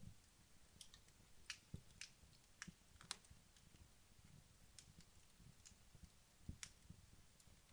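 Wood logs burning down in a fireplace, crackling faintly with scattered sharp pops, about one or two a second, over a soft low rumble of the fire.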